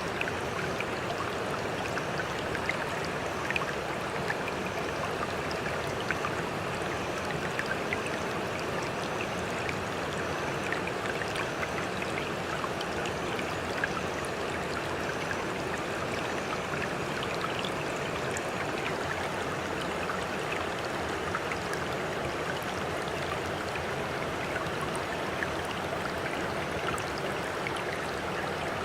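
Steady running water, an even rushing flecked with many small splashes and ticks, unchanging throughout.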